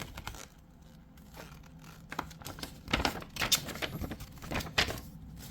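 Paper leaflets and manuals being handled and shuffled, with irregular rustling and crinkling.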